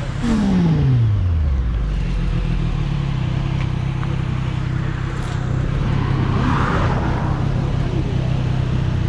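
Motorcycle engine whose revs fall steeply just after the start, then settle into a steady idle.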